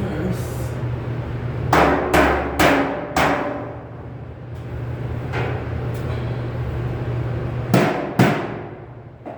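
Hammer blows on sheet metal, each strike ringing briefly: four quick strikes about two to three seconds in, then two more near the end. A steady low hum runs underneath.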